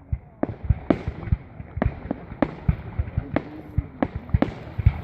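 Fireworks display: shells bursting in quick, irregular succession, about three or four sharp bangs a second over deep booms.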